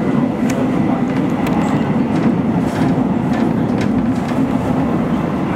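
Interior running noise of a Seohae Line 391000-series electric multiple unit at speed: a steady low rumble from the wheels and motors, with a few faint irregular clicks from the wheels over the track.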